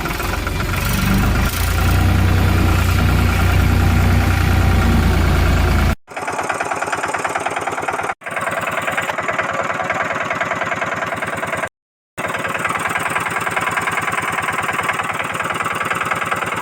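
Engine running, a heavy low rumble for the first six seconds, then a steady pulsing idle. The sound breaks off abruptly three times, at about six, eight and twelve seconds in, as if spliced together from separate pieces.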